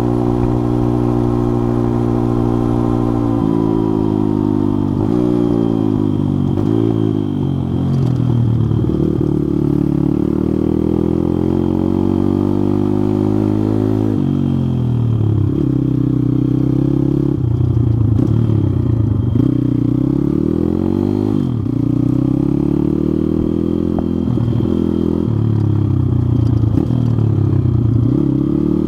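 Pit bike engine running under way. It holds a steady note for the first few seconds, then climbs and drops in pitch again and again as the throttle is opened and closed.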